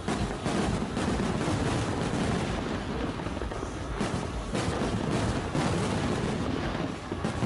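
Aerial fireworks exploding in a dense, continuous barrage of bangs, one burst running into the next.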